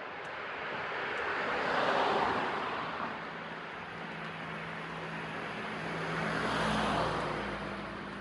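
Two road vehicles passing one after the other, each swelling up and fading over a few seconds; the second carries a low engine hum.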